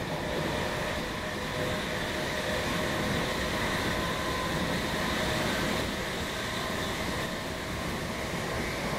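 Class 319 electric multiple unit heard from inside the passenger saloon while running: a steady rumble and rush of running noise with several high tones held throughout.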